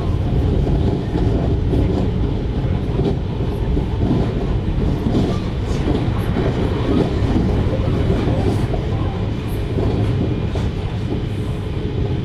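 JR Hokkaido 733 series electric multiple unit running on the line, heard from inside the car: a steady, loud rumble of wheels on rail.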